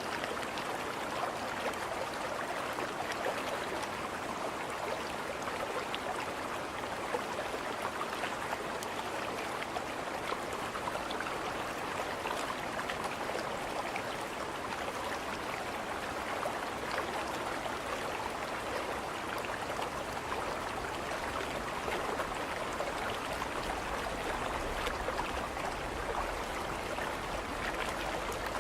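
Steady rush and splash of moving river water, running evenly without a break.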